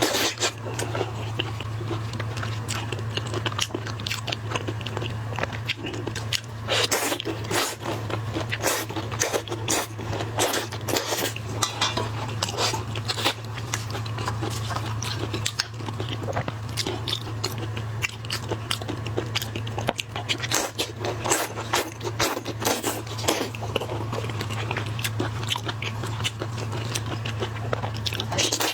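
Close-miked eating of seafood: dense, irregular crunching and chewing clicks, over a steady low hum.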